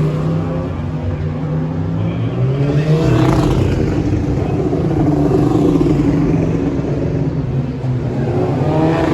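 Several racing motorcycle engines running hard on the circuit, with one bike sweeping past about three seconds in, its pitch rising and then falling.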